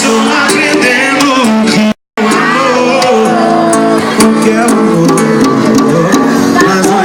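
Loud live sertanejo music: a band with guitar behind a sung vocal line. The recording cuts out completely for a split second about two seconds in.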